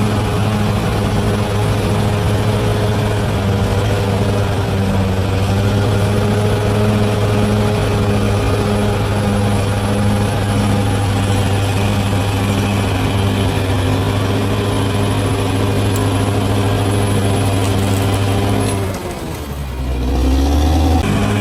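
Large bulldozer's diesel engine running steadily under load. Near the end the revs drop briefly, then climb back up.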